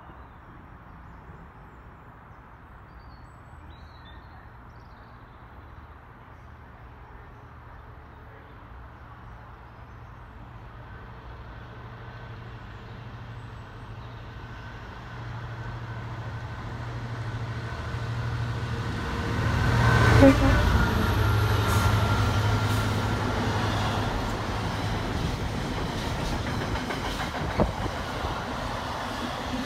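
Intermodal container freight train approaching and running through a station: a low steady drone grows louder, is loudest as the locomotive passes about two-thirds of the way in, then the container wagons rumble and clatter past.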